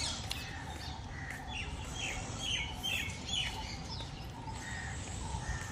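Birds chirping outdoors: a quick series of about five short, falling chirps in the middle, with scattered fainter calls around them over a steady low background noise.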